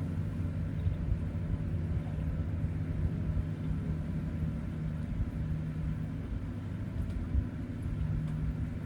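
Airboat engine and propeller droning steadily in the distance, a low, even hum.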